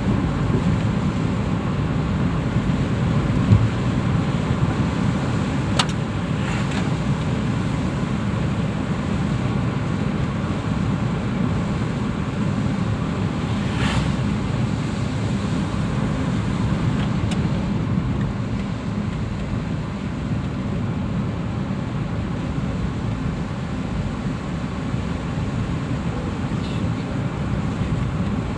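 A car being driven along a road: steady low road and engine rumble, with a few brief clicks about six, fourteen and seventeen seconds in.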